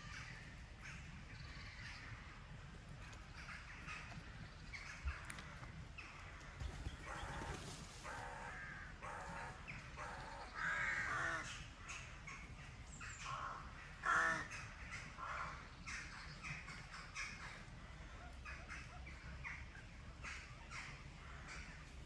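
Woodland birds giving a series of harsh, crow-like calls, one at a time and a second or so apart, over a faint steady background; the loudest call comes about two-thirds of the way through.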